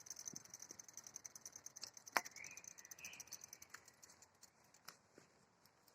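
Faint, rapid ticking of a bicycle's freewheel hub while coasting. The clicks come several a second, spread out and fade after about three and a half seconds, with one sharper click about two seconds in.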